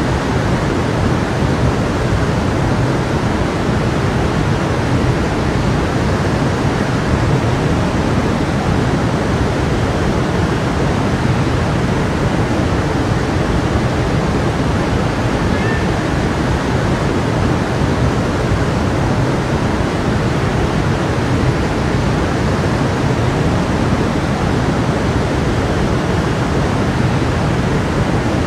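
A stream running: a steady, even rush of water.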